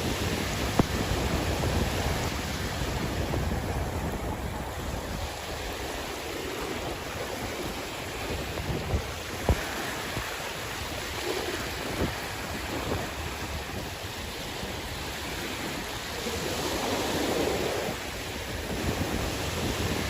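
Sea waves washing ashore in slow swells, with wind rumbling on the microphone and a few short knocks.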